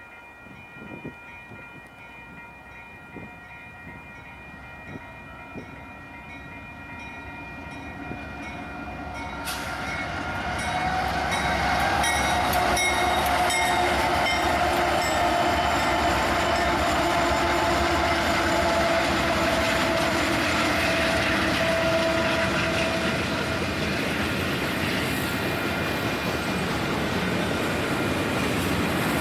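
Union Pacific train approaching and passing close by. The sound builds over the first ten seconds or so, then holds as a loud, steady rumble of locomotives and rolling cars.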